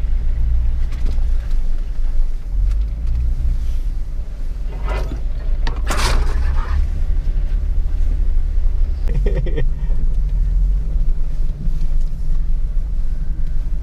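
Jeep's engine and drivetrain rumbling low and steady as it crawls slowly over a rocky trail.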